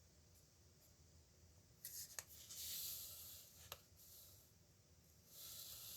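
Nib pen scratching across paper in two spells of quick strokes, the first about two seconds in with two sharp ticks of the nib, the second near the end.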